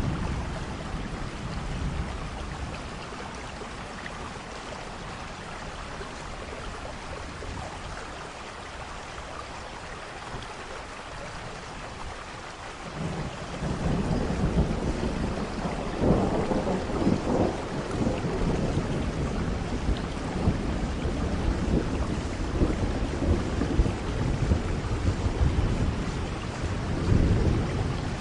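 Thunderstorm: steady rain falling, with thunder rumbling in about halfway through and swelling louder twice, the second time near the end.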